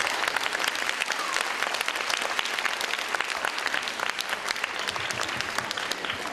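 Crowd applauding, a dense steady clapping that thins slightly near the end.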